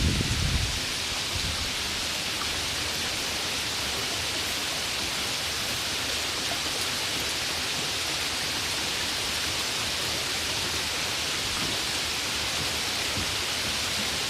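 Steady, even hiss of heavy rain. A loud low rumble dies away in the first second.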